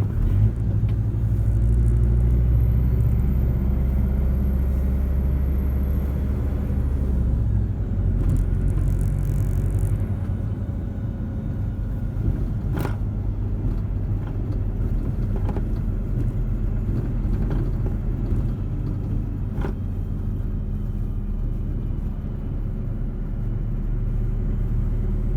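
A low steady rumble like a motor vehicle's road noise, heaviest for the first several seconds, with a few faint clicks.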